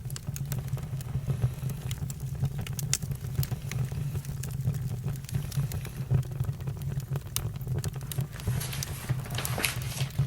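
Campfire crackling, with frequent sharp pops and snaps over a steady low rumble of the flames; a denser hiss of crackling comes in near the end.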